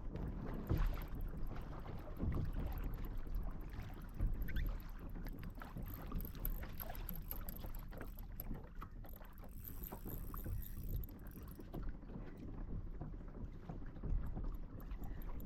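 Water sloshing against a kayak's hull, with wind on the microphone.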